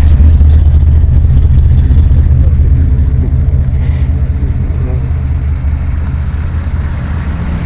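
A car engine running at low speed with a deep, steady rumble that slowly grows quieter.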